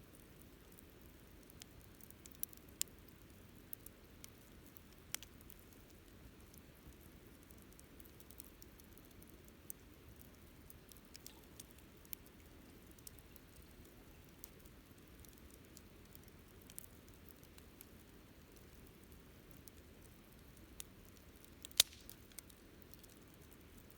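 Wood campfire crackling softly: scattered sharp pops and snaps over a faint low hiss, with one louder pop near the end.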